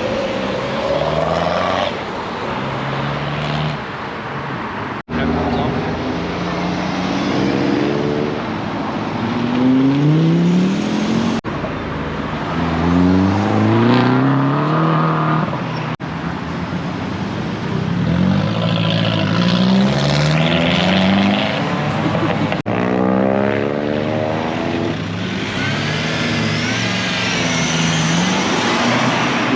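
Modified car engines revving and accelerating away one after another, each engine note climbing in pitch, with several such runs in succession.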